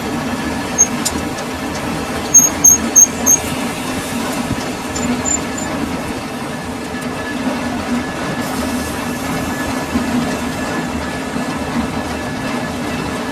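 Metal lathe running steadily while turning a steel roller, with a low hum throughout. About two and a half seconds in come four quick, sharp high-pitched pings from the metal work, the loudest sounds here, and single pings come before and after.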